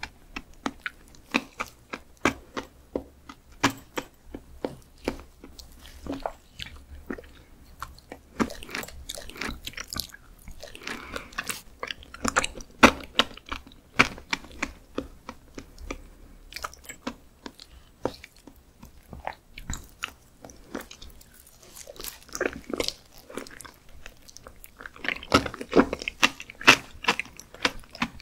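Close-miked chewing of raw skate liver: many short mouth clicks and smacks, coming in thicker flurries around the middle and again near the end.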